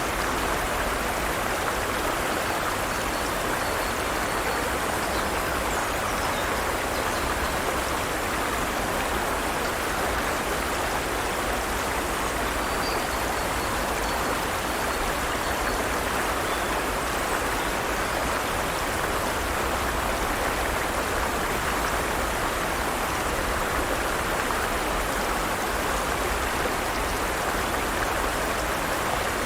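Forest stream flowing steadily: an even rush of running water over stones.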